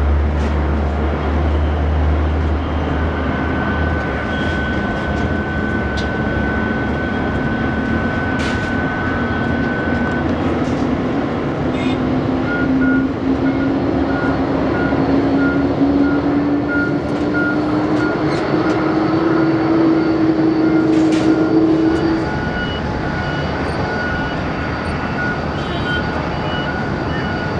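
Jet engines of a Boeing 787-8 Dreamliner (Rolls-Royce Trent 1000) running with a steady roar. An engine whine rises slowly in pitch for about twenty seconds, then drops away suddenly.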